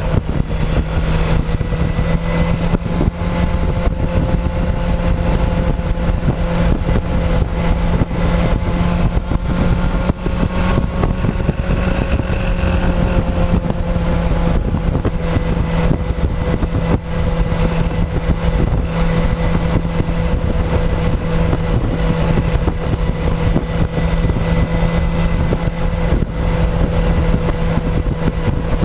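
Motorcycle engine running at a steady cruising speed, picked up by a camera mounted on the fuel tank, with steady wind and road noise; the engine note rises slightly about a third of the way through and settles back.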